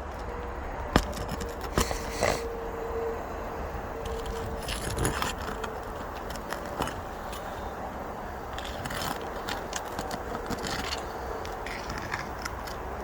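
Metal nail-pulling tool scraping and clicking under asphalt roof shingles while prying nails loose, with a few sharp knocks about a second and two seconds in and scattered lighter clicks after, over a steady low rumble.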